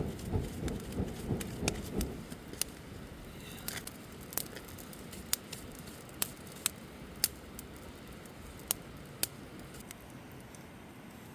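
Campfire crackling, with sharp pops every second or so. For the first two seconds it is overlaid by a run of low thumps and rustling close by.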